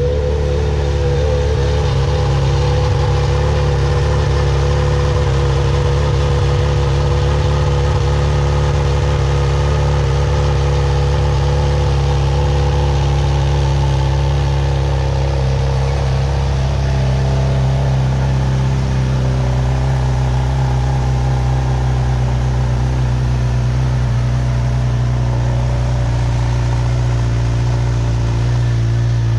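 2021 Honda CB1000R's 998 cc inline-four idling through its exhaust, a steady, even note with no revving.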